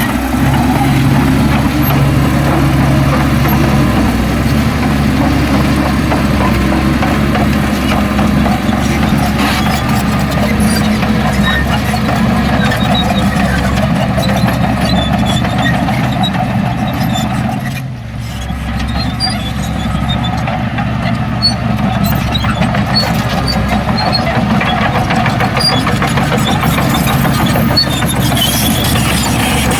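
Heavy diesel earthmoving machinery running steadily, its engine note dipping briefly about eighteen seconds in.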